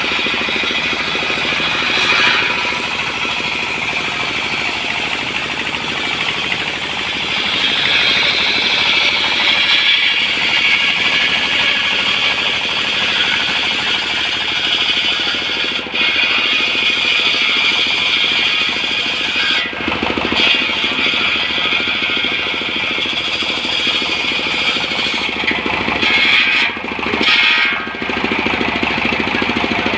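Engine-driven portable sawmill running continuously, sawing timber at the felling site. It gives a steady, loud machine noise with a few brief drops in level in the last third.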